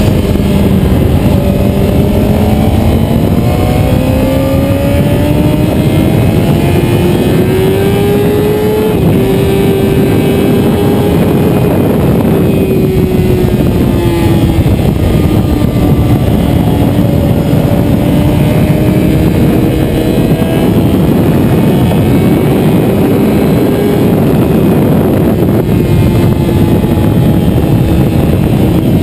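Motorcycle engine at track pace, its note climbing for several seconds, easing down, then rising and falling again as the rider goes through the corners, over a loud, steady rush of wind noise.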